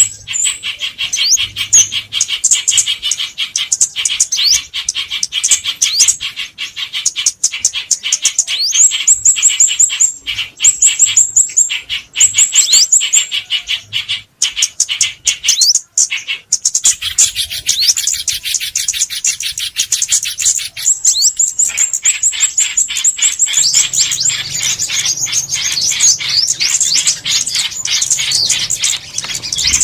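Recorded calls of small songbirds used as a lure for glue trapping: rapid high chirps and twitters, many a second, with short down-slurred notes. The calling changes character about halfway through and again a few seconds later.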